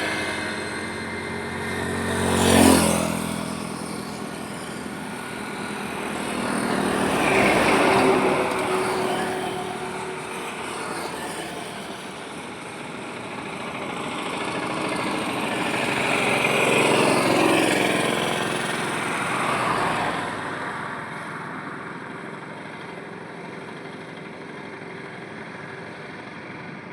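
Highway traffic with vehicles passing one after another, each swelling and fading. One sharp, loud pass comes about three seconds in, others follow, and the road goes quieter near the end.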